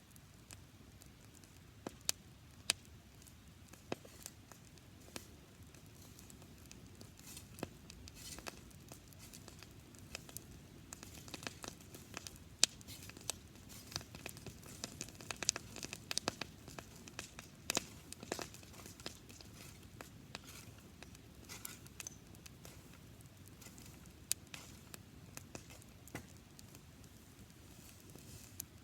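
A campfire of dried grass crackling, with many irregular sharp pops and snaps that come thickest in the middle stretch.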